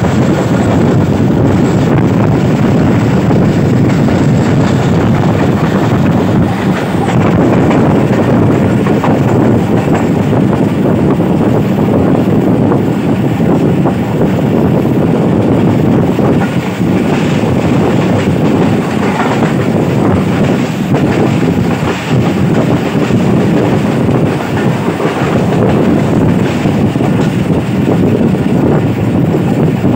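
Passenger train running at speed, heard from an open coach window: steady running noise of the coach wheels on the rails.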